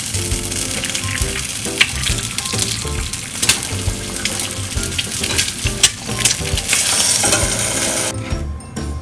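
Food sizzling in a hot frying pan, with occasional clicks, louder toward the end and stopping suddenly about eight seconds in. Soft background music plays underneath.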